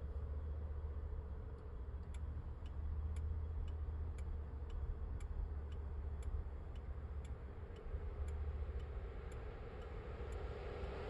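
Car turn-signal indicator clicking steadily, about two clicks a second, over the low rumble of the car's engine and road noise inside the cabin. The clicking starts about a second and a half in and stops near the end.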